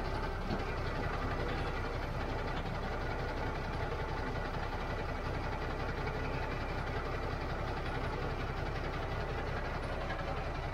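Diesel truck engine idling steadily, a low even chug.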